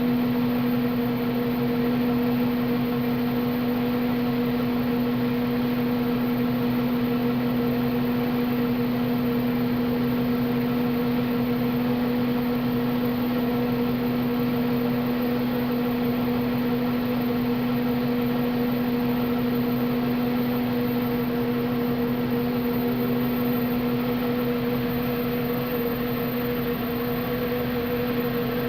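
Engine running steadily at one speed with a misfire, though its spark has been found to be good.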